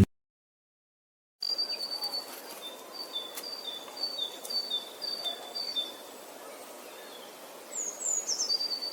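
A songbird singing over faint outdoor background hiss: a two-note phrase, high then slightly lower, repeated about seven times, then a few quick falling chirps near the end. It begins after about a second and a half of silence.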